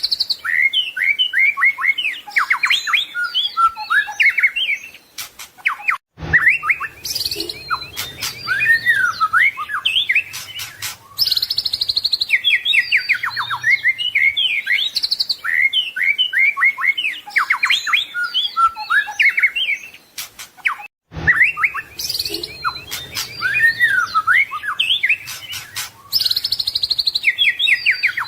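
White-rumped shama (murai batu) singing a long, varied song of rapid whistles, trills, sweeping notes and harsher chattering phrases. The song breaks off briefly twice, about six and twenty-one seconds in.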